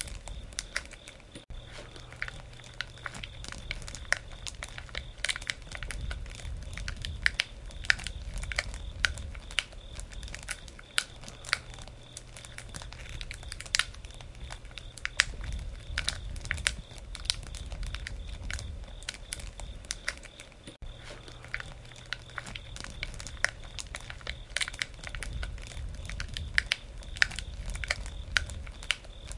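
Wood campfire burning: the logs crackle with frequent, irregular sharp pops over a low, steady rumble of the flames.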